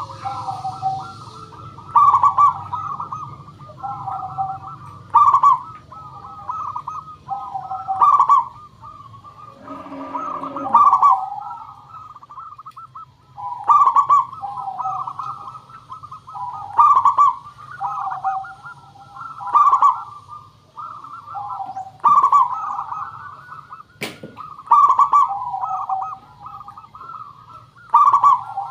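Zebra dove (perkutut) cooing: its rippling, rolling coo phrase repeats about every one and a half to two seconds, with one short pause about halfway. A single sharp click sounds about four-fifths of the way through.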